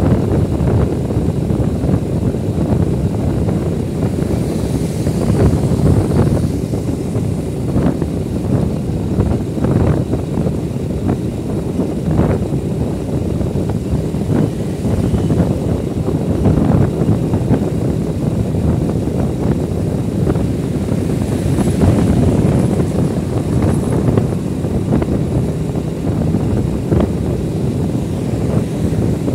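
Wind buffeting the microphone over the steady rumble of a motorcycle on the move, with scattered small knocks and bumps.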